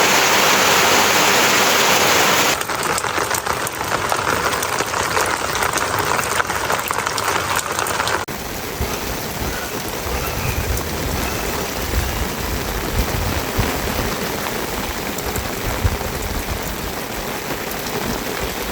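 Rain falling steadily, heard in several clips joined by sudden cuts about two and a half and eight seconds in. The first stretch is a louder, even rush of water.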